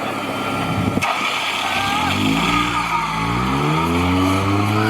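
Off-road competition 4x4's engine revving under load, its pitch climbing from about two seconds in, rising again and then held high. A single sharp knock sounds about a second in.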